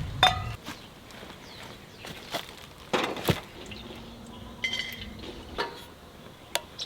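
Scattered light knocks and clinks, with a few short high chirps in between.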